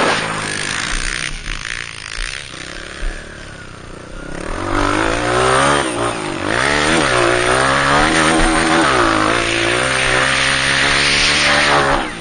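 Honda CRF230 dirt bike's single-cylinder four-stroke engine being ridden hard. It is quieter and lower for about the first four seconds, then louder, its pitch climbing and dropping again and again as the throttle opens and closes.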